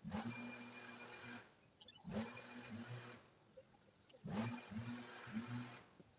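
A small motor run in three short bursts about two seconds apart, each spinning up quickly and lasting just over a second.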